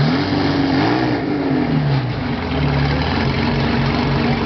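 Ferrari Testarossa's flat-twelve engine given one short blip of the throttle, its note rising and falling back within the first second and a half, then settling to a steady idle.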